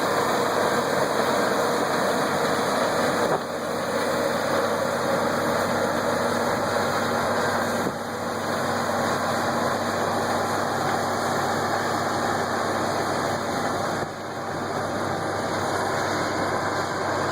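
Combine harvester running steadily while harvesting corn, a continuous machine drone that dips briefly three times.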